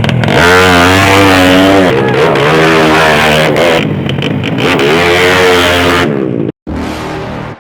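Tuned drag-bike motorcycle engine revving hard, its pitch swinging up and down again and again. The sound cuts out suddenly about six and a half seconds in, comes back briefly, then drops away.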